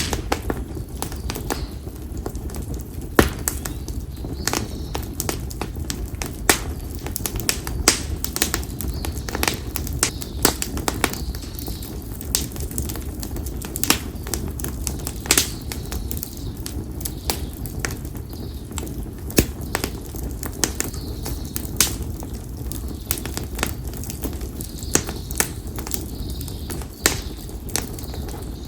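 Split konara oak firewood burning in an open campfire, crackling with frequent irregular sharp pops over a steady low rumble. Faint bird calls sound now and then in the background.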